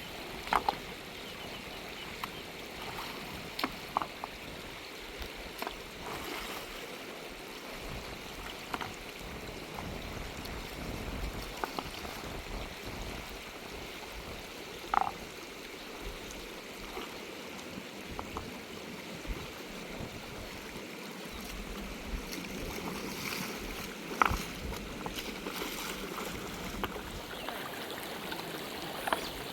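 Steady rush of a fast mountain river flowing over stones, with a few short, sharp knocks or splashes scattered through it.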